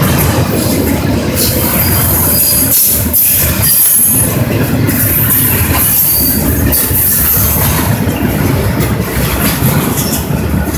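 Double-stack container train's well cars rolling past: a loud, steady rumble of steel wheels on rail, with a high-pitched wheel squeal that comes and goes and scattered clicks.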